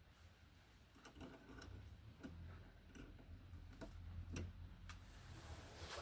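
Near silence with faint, irregular small clicks and taps, about one every half second to second, over a low steady hum.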